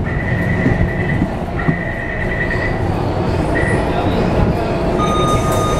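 Passenger train running on the rails with a steady rumble, and a high-pitched squeal that comes and goes over the first few seconds. Several steady high whining tones start near the end.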